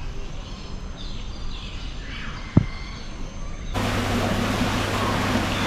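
Faint bird calls, a few falling whistles, with one short thump about two and a half seconds in. Near the end an abrupt change to a steady, louder outdoor noise with a low hum.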